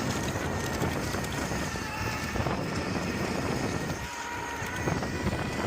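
Wind buffeting the microphones of Meta Ray-Ban smart glasses while riding an electric bike, a steady rush with faint steady tones.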